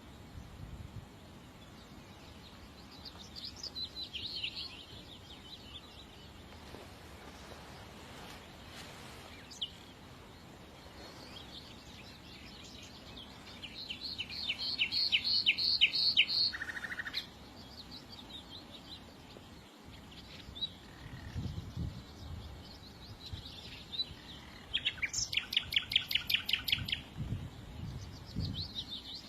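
Small songbirds singing in bursts of rapid, high trills and chirps, the loudest a fast trill about halfway through and another near the end. Low rumbles come in a few times late on.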